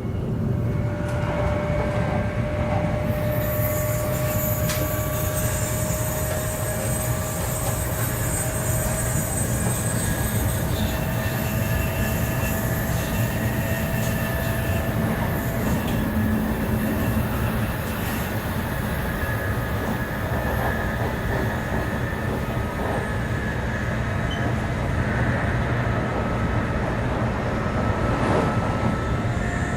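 700 series Shinkansen running at speed, heard from inside the carriage: a steady rumble of wheels on rail, with the traction motors' and inverter's thin whining tones slowly climbing in pitch as the train gathers speed.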